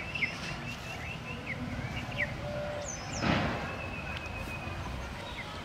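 Small birds chirping: a quick run of short repeated chirps in the first two seconds, then a single steady high whistled note lasting over a second near the end. A brief rushing noise sounds about three seconds in.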